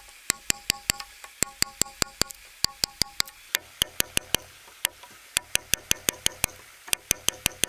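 A hand tool striking repeatedly in quick runs of sharp taps, about four or five a second, some with a faint ring.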